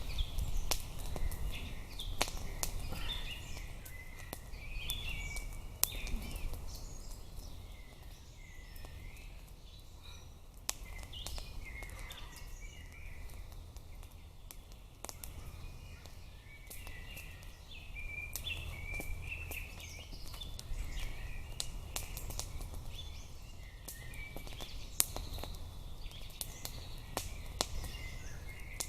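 Forest birds chirping and singing, with scattered sharp clicks and a steady low rumble underneath.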